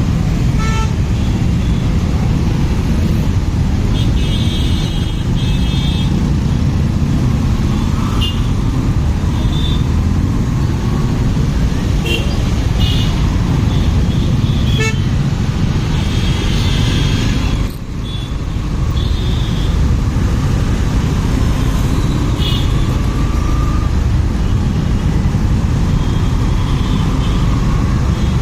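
Motorcycle ride in traffic: steady rush of wind and road noise with the engine, while vehicle horns give short honks many times over. The noise drops briefly about two thirds of the way through.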